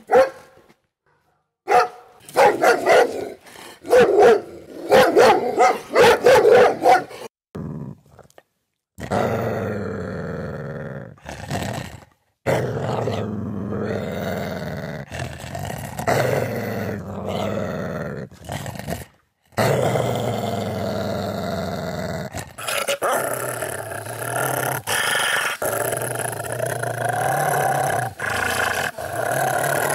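A dog barking in quick volleys for several seconds, then a long stretch of low, continuous growling. The growling breaks off in two brief silences, and near the end short barks are mixed into it.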